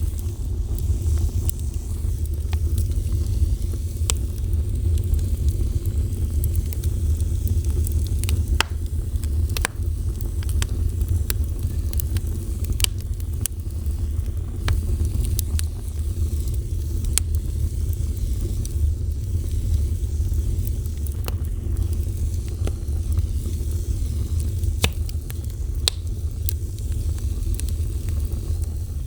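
Fire burning, with a steady low rumble and scattered sharp crackles and pops throughout.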